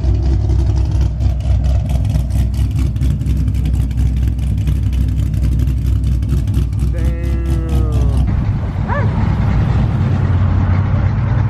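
Loud car exhaust rumbling with an even pulse, about five beats a second, that eases off about eight seconds in. A drawn-out tone falling in pitch cuts across it shortly before the change.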